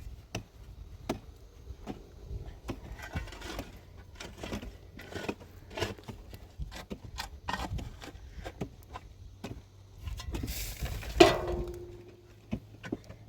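Scattered clicks and knocks of things being handled, with a stretch of rustling hiss and one louder clatter about eleven seconds in that rings briefly.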